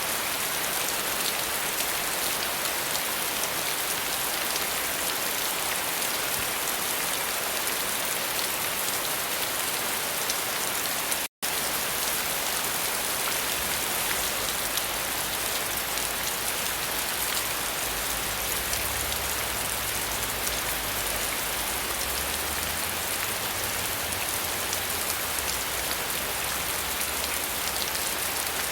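Steady, dense rain falling, an even hiss of many drops. The sound drops out to silence for a split second about eleven seconds in, and a low rumble joins the rain in the second half.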